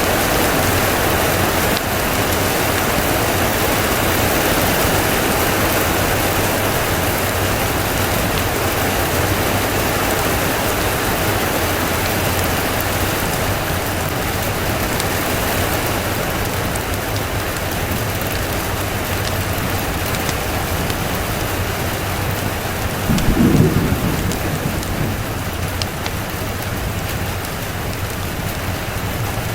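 Steady rain falling, with one short low rumble of thunder about three-quarters of the way through.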